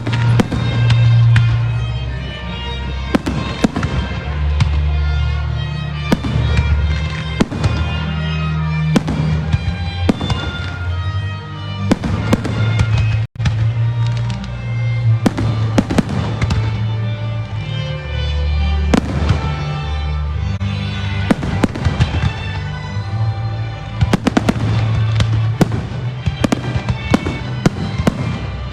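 Pyromusical fireworks display: a rapid, irregular series of firework bangs and crackles over loud recorded music with heavy bass notes.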